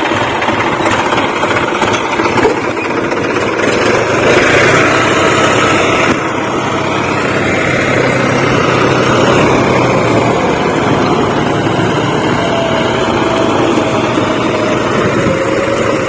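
Diesel tractor engines running loudly and steadily.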